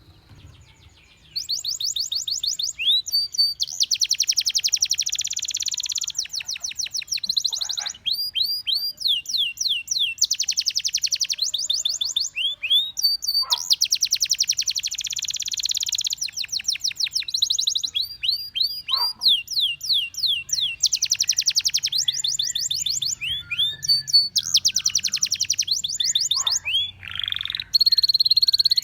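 Domestic canary singing a long song made of fast trills of rapidly repeated high notes and swooping whistled notes; the song starts about a second in.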